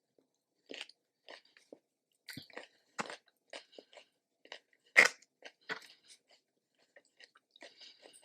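A person chewing food close to the microphone: irregular short mouth clicks and crunches, a few a second, with one louder crunch about five seconds in.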